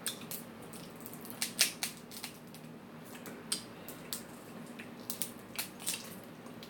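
Snow crab leg shells cracking and snapping as they are broken open by hand, a series of irregular sharp cracks and clicks.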